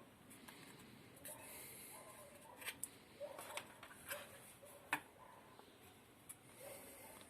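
Small parts of a blender being handled during disassembly: soft scraping and light clicks of plastic, with a sharper click about five seconds in.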